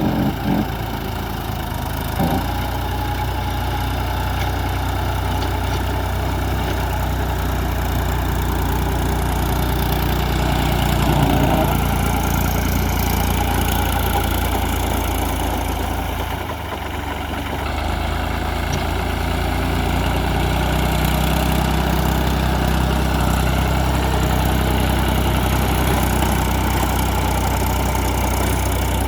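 Farm tractor's diesel engine running steadily. Its note dips briefly about two-thirds of the way through, then evens out again.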